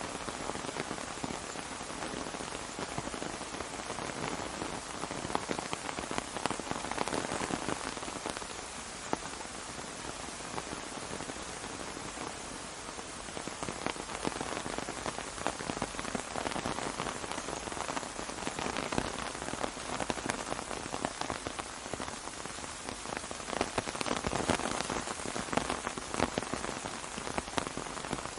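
Steady rain falling on an umbrella: a dense hiss with many separate drop hits, swelling and easing a little at times.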